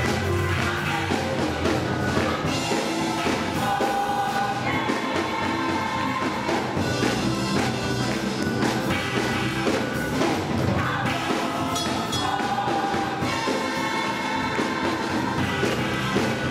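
Gospel choir singing, with instruments and drums playing along.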